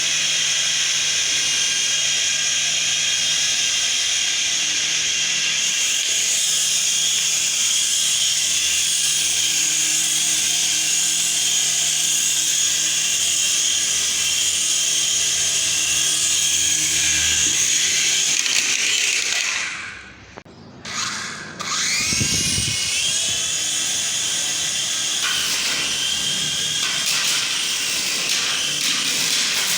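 Small electric motor of a radio-controlled helicopter running with a steady high-pitched whine. About two-thirds of the way through it cuts out, then spins back up with a rising whine and runs steadily again.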